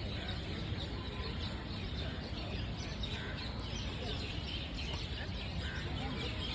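Small birds chirping here and there over steady outdoor background noise.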